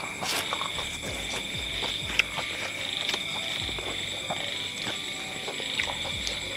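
Close crunching and snapping of raw long beans being bitten and broken, heard as scattered sharp clicks. Behind it runs a steady, high-pitched chorus of night animals.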